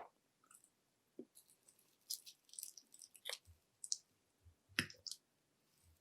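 Close-miked chewing of panko-fried shrimp: scattered soft crunches and wet mouth clicks, with two sharper clicks about three and five seconds in.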